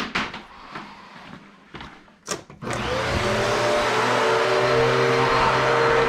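A few knocks and clicks, then a vacuum cleaner switched on about halfway through, its motor spinning up and running with a loud, steady whirring.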